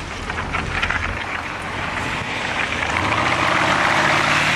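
Porsche Cayenne's engine under hard acceleration, pulling steadily with its pitch slowly rising and the engine and road noise building louder.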